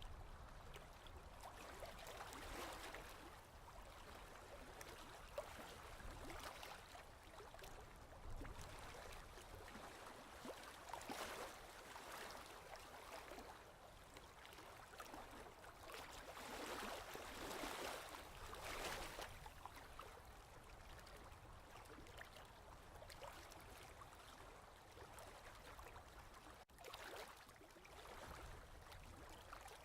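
Faint ocean waves washing in, each swelling and fading away every few seconds.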